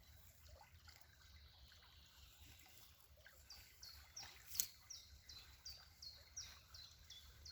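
A bird repeats a short, high, downward-sliding chirp about three times a second. It stops for about two seconds near the start, then carries on. A single sharp click comes a little past the middle, over a faint low rumble.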